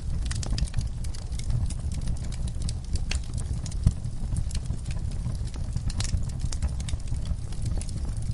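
Wood fire crackling in a fireplace: irregular sharp pops and snaps over a steady low rumble of the flames, with one louder pop about four seconds in.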